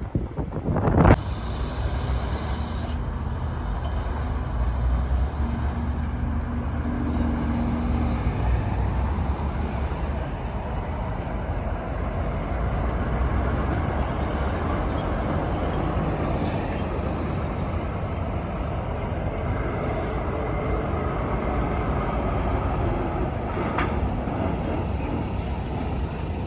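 Heavy semi trucks running past, with a steady rush of engine and road noise and a low engine hum in the first several seconds. A few loud bumps of wind on the microphone at the very start.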